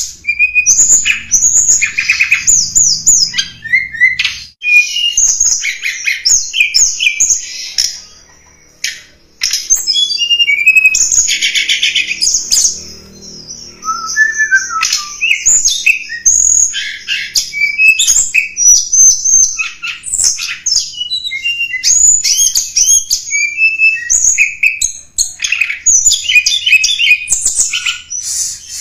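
Blood-breasted flowerpecker (tledekan gunung) calling: rapid, high-pitched chirps and short trills, one after another, with brief pauses about eight and thirteen seconds in. This is a lure recording used to draw in wild flowerpeckers.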